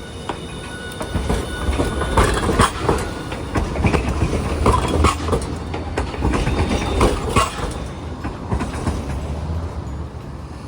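Hiroshima Electric Railway streetcar passing close, its wheels clattering over the track in a dense run of knocks over a low rumble. The clatter starts about a second in, is loudest in the middle, and dies away near the end.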